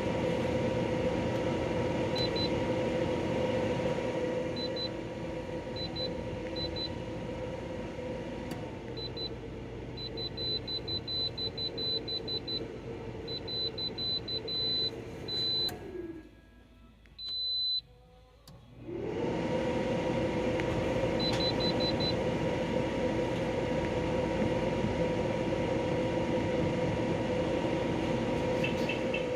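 Portable air conditioner running with a steady hum, its control panel beeping rapidly many times as buttons are pressed. About sixteen seconds in the unit shuts off and its fan winds down, falling in pitch. It starts again with one beep and spins back up to full speed about three seconds later.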